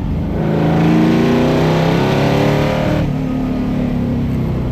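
Iso Grifo's V8 accelerating hard, its pitch climbing for about three seconds before dropping back as the throttle eases off.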